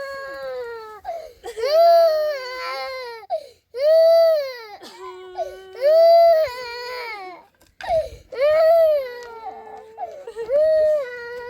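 A baby crying hard: a string of loud, high-pitched wails, about one every two seconds, each rising and then falling in pitch.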